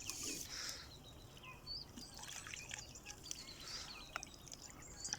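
Faint water trickling and dripping, with a few short, high bird chirps and small clicks scattered through.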